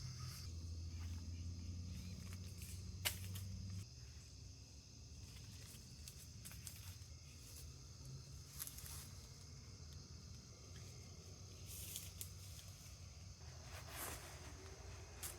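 Faint outdoor ambience of insects chirping steadily at a high pitch, with a low hum that stops about four seconds in, a sharp click, and a few brief rustles.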